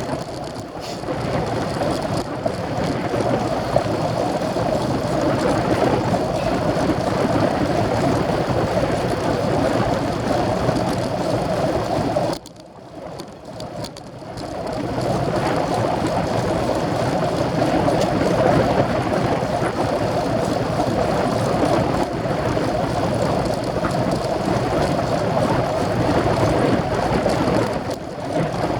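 Steady rushing noise from riding a road racing bike: wind on the microphone and tyre noise on the road. It drops away briefly about twelve seconds in, then returns.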